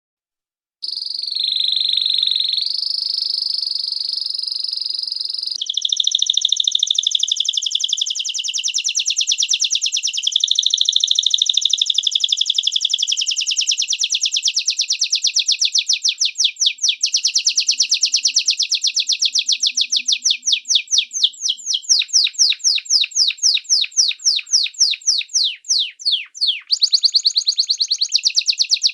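A small songbird singing: a high, steady whistled note for a few seconds, then long, fast trills of repeated chirps that go on to the end, changing in pattern near the end.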